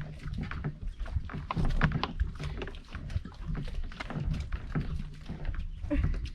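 Kayak and paddle in shallow, muddy water: irregular splashes, knocks and scrapes as the boat is worked through the mud, over a steady low rumble.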